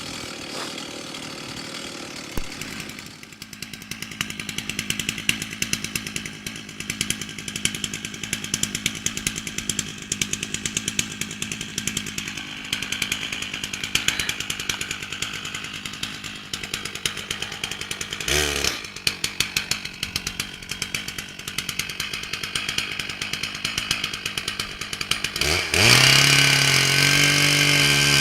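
Two-stroke chainsaw idling with a rapid, uneven putter, then briefly revved about two-thirds of the way through. Near the end it is opened up to a loud, steady full-throttle run.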